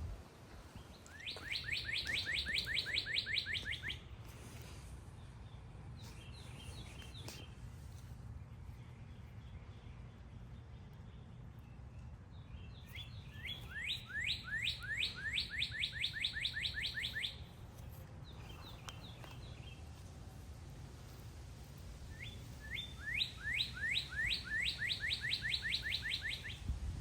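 A songbird singing three times: each song is a fast run of identical rising whistled notes, several a second, lasting about three seconds. Fainter, shorter bird calls come in the gaps between songs.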